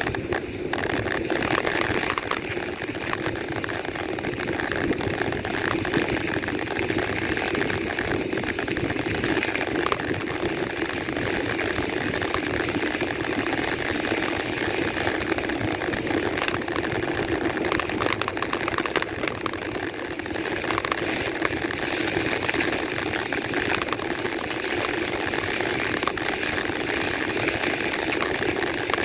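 Steady running noise of a bike in motion, with many small clicks and rattles throughout.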